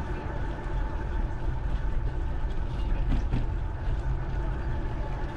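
Wind and riding noise on the microphone of a GoPro carried on a bicycle: a steady low rumble that flutters in level.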